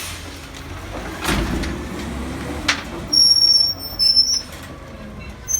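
CCC garbage truck with a Pak-Mor rear-loader body rumbling as it works. There is a thud and then a sharp click, followed by two short spells of high-pitched squealing.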